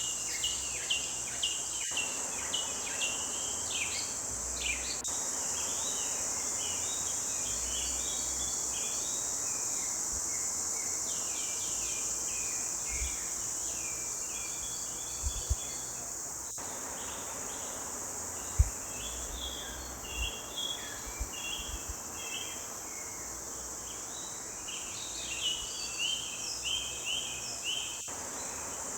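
Forest birds singing: many short chirps and quick trills from several birds overlapping. Under them runs a steady high insect buzz. A few soft low thumps come in the middle, one sharper than the rest.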